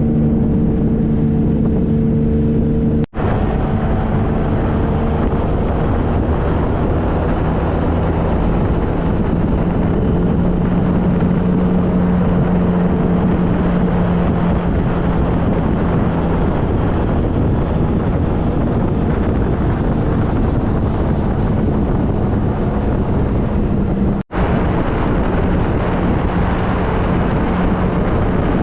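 2013 Triumph Trophy SE's three-cylinder engine running steadily under way, its pitch rising and falling gently, under heavy wind and road rush. The sound cuts out for an instant twice, about 3 seconds in and near the end.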